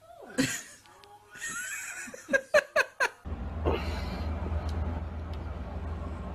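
A person's voice and a quick run of laughter, then the sound suddenly gives way to a steady low rumble about three seconds in.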